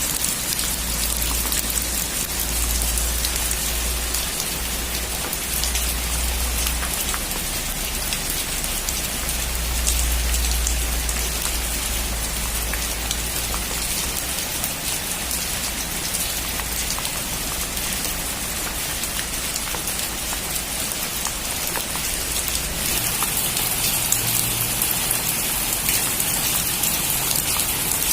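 Heavy rain drumming steadily on a metal roof, a dense hiss with many small drop ticks.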